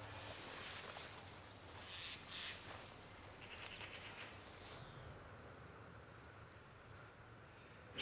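Faint open-air ambience with a small bird calling: a thin string of high, rapidly repeated notes, about five a second, at the start and again from about halfway to near the end.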